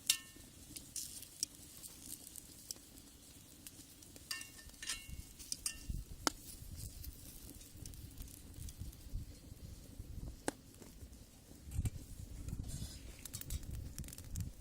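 Wood fire in a brick rocket stove crackling, with scattered sharp pops and a few short ringing metal clinks near the start and about four and a half seconds in.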